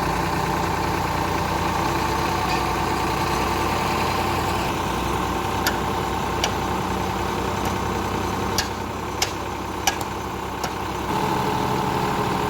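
Diesel tractor engine running steadily. Through the middle stretch there is a string of about seven sharp clicks or knocks, and the engine note steps up again near the end.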